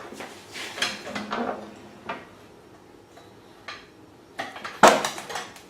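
Scattered light knocks and clicks of hard parts being handled and shifted, with one louder knock near the end.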